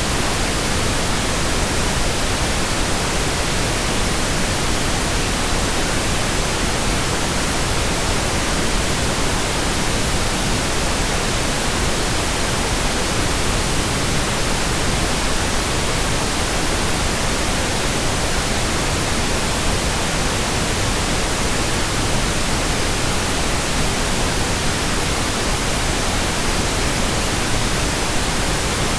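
Steady white noise, an even hiss across all pitches that does not change.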